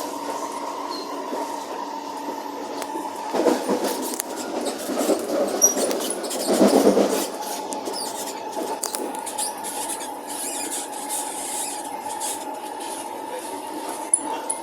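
Singapore MRT train running between stations, heard inside the carriage: a steady running noise with a constant whine, which grows louder and rougher for a few seconds in the middle, with a few faint high squeaks.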